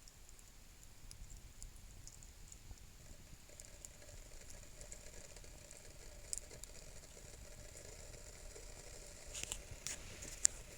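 Wood campfire crackling faintly, with scattered small pops and a few sharper snaps near the end.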